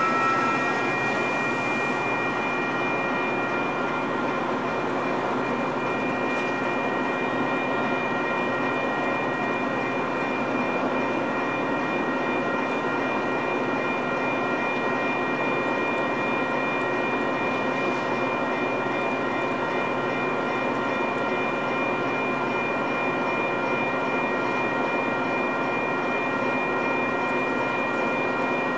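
Metra commuter train standing at a station stop, its diesel locomotive running steadily: a constant drone with several steady high whines over it. A brake squeal dies away in the first moment.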